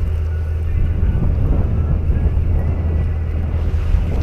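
Steady low drone of a fishing boat's engine, with wind buffeting the microphone.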